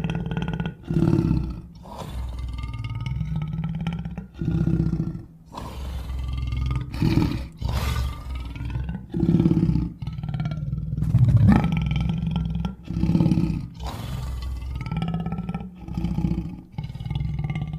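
Big-cat growl and roar sound effects, a string of rumbling growls broken by short roars, about ten in a row with brief gaps between them.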